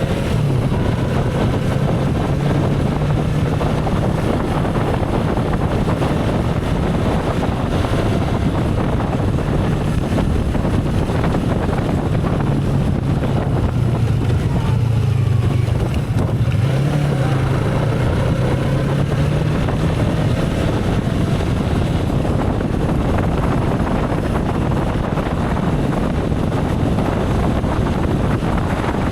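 Motorcycle engine running steadily while riding, its note dipping and rising a few times near the middle, under constant wind noise on the microphone.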